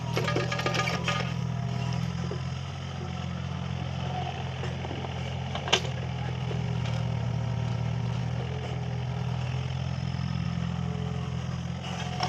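Mini excavator's diesel engine running steadily, with light metal clatter in the first second and a single sharp knock about halfway through.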